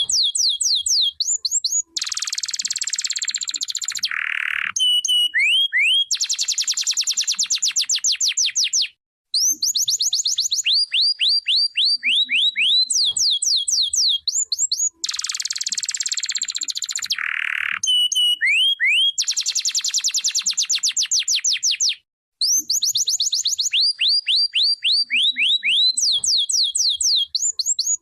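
Domestic canary singing a long continuous song. It moves through runs of rapidly repeated sweeping notes, dense fast trills and buzzy rolls, with brief breaks twice.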